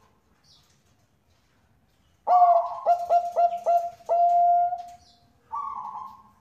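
Zebra dove (Bangkok perkutut) cooing: about two seconds in, a quick run of short notes ending in one long held note, then a shorter, rougher note near the end.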